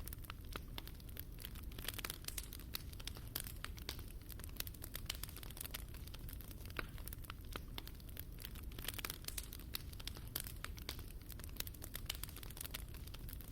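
Fire crackling in a fireplace: many irregular sharp pops and snaps over a low steady rumble of the flames.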